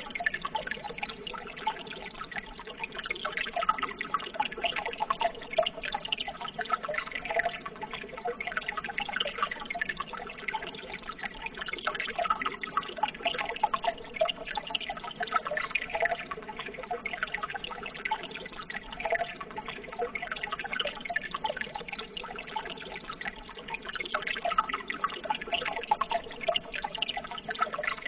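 Running water trickling steadily, full of small splashing and dripping sounds.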